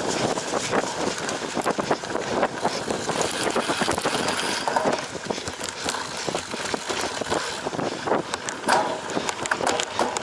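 Cyclocross bike ridden hard over a rough course: continuous tyre and wind noise with a dense clatter of rattles and knocks from the frame, chain and components.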